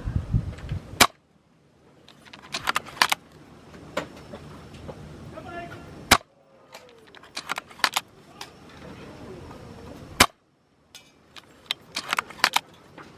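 Tokyo Marui VSR-ONE airsoft bolt-action spring rifle firing three times, four to five seconds apart, each shot a single sharp crack. Between the shots come quick clusters of clicks as the bolt is worked to cock the spring and chamber the next BB.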